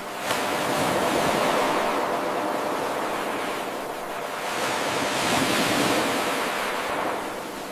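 Ocean waves washing ashore as a steady rush of surf. The sound surges up suddenly about a third of a second in, eases, swells again midway and fades near the end: an 8-second wave recording played on a loop.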